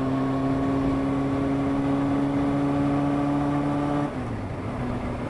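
Honda CBR600F2's inline-four engine running steadily while the bike is ridden. About four seconds in, its note drops in pitch and loudness.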